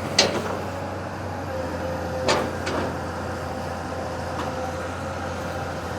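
Excavator's diesel engine running steadily, with a few sharp metallic knocks, one near the start and two close together a little past two seconds in.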